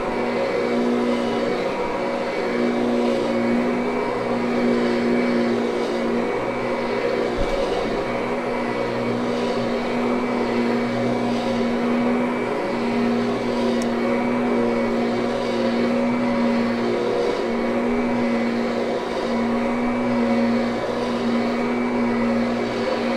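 Kirby upright vacuum cleaner running steadily as it is pushed over a thick carpet, a strong motor hum whose tone briefly dips every few seconds. It is pulling a large amount of pet hair out of the pile.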